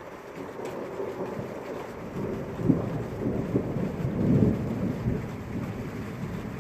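Thunder rumbling over steady rain. The rumble swells about two seconds in, with a sharp crack shortly after and its loudest roll a little past the middle.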